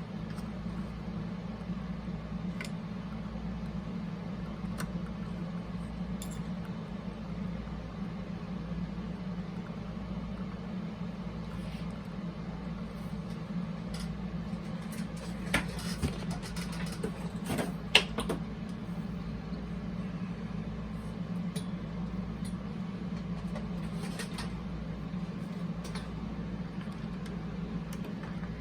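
Toshiba RT-8056 boombox cassette mechanism running on test after a belt replacement: a steady low motor hum, with scattered light clicks and a few sharper knocks about halfway through.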